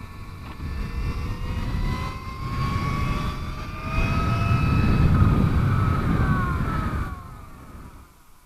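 Electric motor of a Greenger G3S mini motorcycle whining, its pitch rising and falling as the throttle is worked unevenly, over a low wind and tyre rumble. The whine fades away about seven seconds in.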